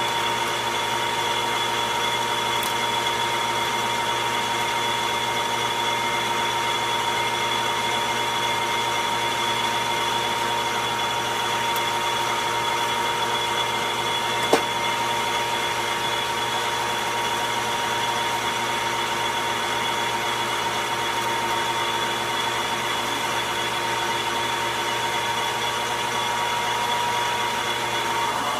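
Logan metal lathe running steadily with a constant whine, with a single sharp tick about halfway through. It shuts off near the end.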